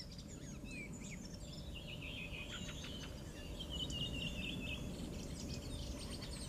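Several small birds chirping and calling with many short, quick high notes, busiest in the middle, over a low steady background noise.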